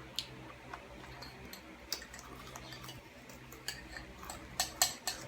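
A few scattered light clicks and taps from eating at a table, such as a spoon or cutlery against a dish, over a faint steady hum; the clicks come closer together near the end.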